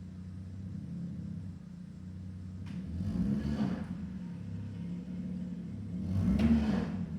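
Jaguar XJ6 3.2 straight-six idling through a muffler-delete exhaust, blipped twice: pitch and loudness rise and fall about three seconds in and again near the end, the second rev the louder.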